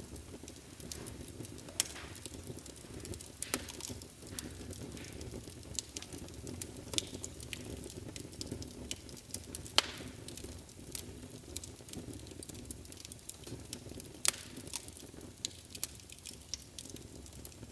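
Wood fire burning in a fireplace: a steady low rush of flame under constant irregular crackling, with a few sharper pops.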